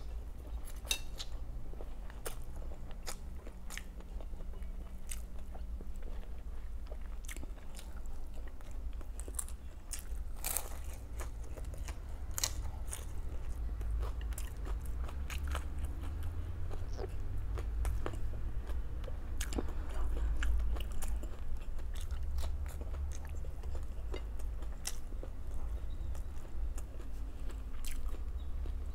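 A person chewing and biting food close to the microphone, with frequent short crunches and clicks over a low steady hum.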